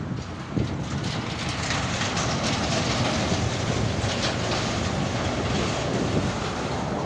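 A truck driving past on the highway, with steady engine and tyre noise.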